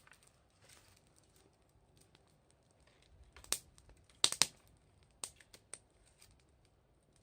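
Wood fire crackling: a few sharp pops and snaps over a faint background, the loudest about three and a half and four and a half seconds in.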